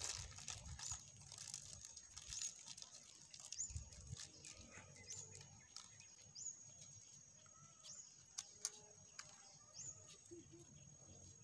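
A bird chirping over and over, one short high chirp about every one and a half seconds, with faint clicks and rustling underneath.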